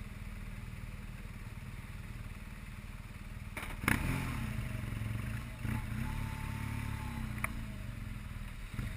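Motorcycle engine running with a steady low rumble; a sharp knock about four seconds in, after which the engine note falls and runs a little louder.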